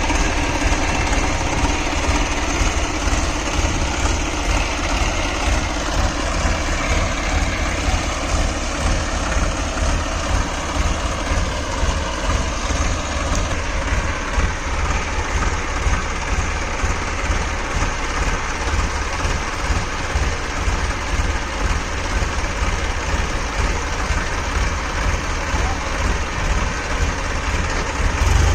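Massey Ferguson 7250 DI tractor's diesel engine running continuously, its pitch drifting slowly up and down.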